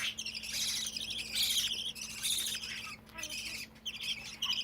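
Pet bird chattering and warbling in a quick, near-continuous stream of high chirps with short breaks, over a faint steady hum.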